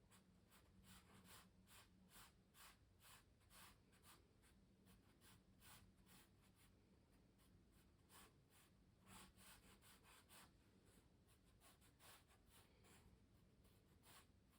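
Faint, short, scratchy strokes of a pencil or brush on canvas, about two a second, with a brief pause a little past the middle.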